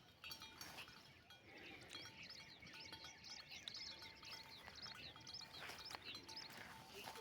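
Faint outdoor birdsong: many quick, high chirps from small birds, busiest from about two seconds in to near the end, over a faint steady tone.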